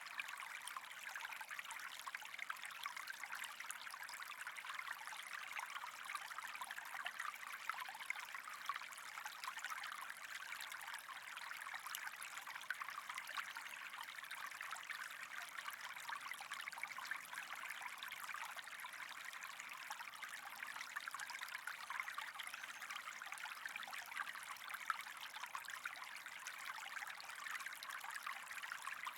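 Steady trickling, running water with a fine crackle.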